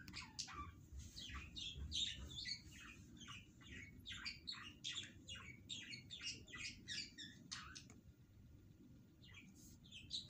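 Small birds chirping, a rapid busy run of short high calls that thins out about eight seconds in, with a few more chirps near the end.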